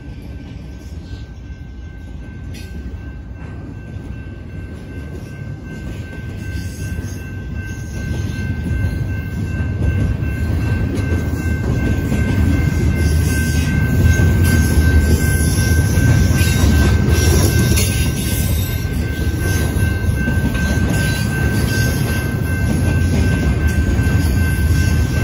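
Double-stack intermodal container cars of a BNSF freight train rolling past over a grade crossing: a steady rumble and clatter of steel wheels on rail that grows louder from about eight seconds in. A thin, steady high tone runs over it throughout.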